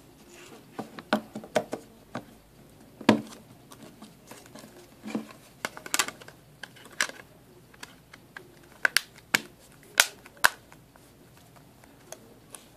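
Scattered sharp clicks and taps of an Alcatel OneTouch Evolve smartphone being handled as its battery is fitted.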